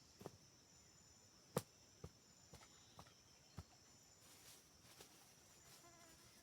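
Forest insects trilling steadily on a high note, with a few light, irregular knocks and clicks, the sharpest about a second and a half in.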